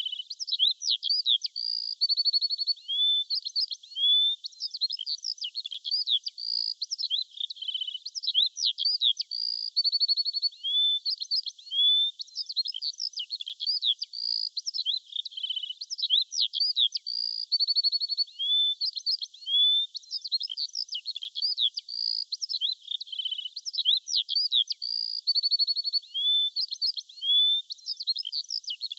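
Birdsong: a continuous, busy chorus of high chirps, quick sweeping notes and short trills, with no low sounds at all, so it sounds thin and bright.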